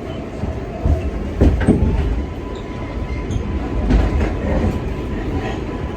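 New York City 7 line subway train running between stations, heard from inside the car: a steady low rumble with wheels clattering, and a few louder knocks about a second in, around a second and a half in, and again near four seconds.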